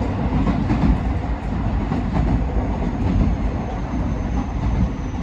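JR West 207 series electric train running: a steady low rumble of wheels on rail, with a few faint clicks.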